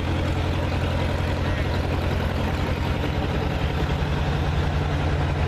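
Heavy vehicle engine idling steadily, a low, even drone that does not rise or fall.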